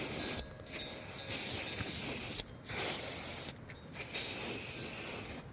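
Loud steady hissing noise in four stretches, each starting and stopping abruptly, with short breaks between them.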